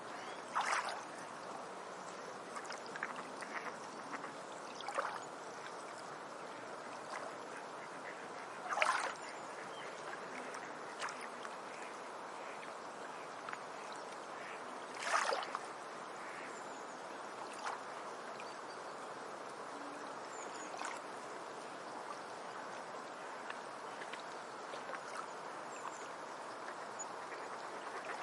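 Tropical forest ambience: a steady rush like flowing stream water, with scattered short sharp sounds, three louder ones about a second in, about nine seconds in and about fifteen seconds in.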